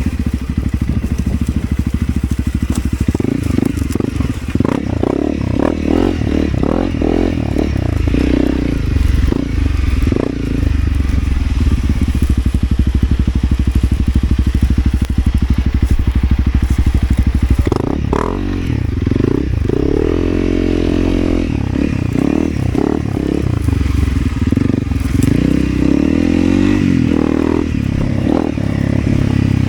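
Motorcycle engine running as the bike rides over rough off-road ground. The revs rise and fall several times in the second half.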